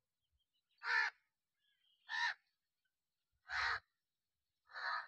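Four short, harsh bird calls, spaced a little over a second apart.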